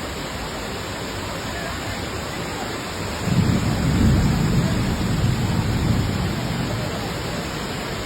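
Fast-flowing floodwater, a steady rushing noise. A louder low rumble swells from about three seconds in and fades out a few seconds later.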